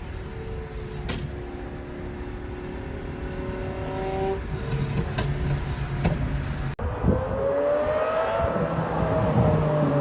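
Lamborghini supercar engine running with its pitch slowly climbing, then after a sudden break a rev that rises and falls again.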